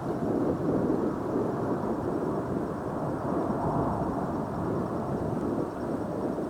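Jet airliner engines rumbling as a low, steady roar that eases slightly near the end.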